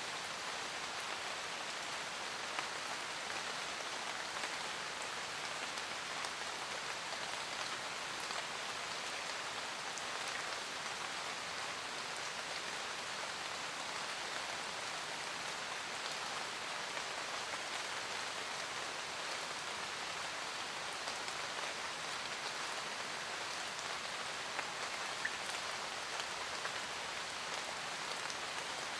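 Steady rain pattering on a roof, with a few sharper ticks of single drops now and then.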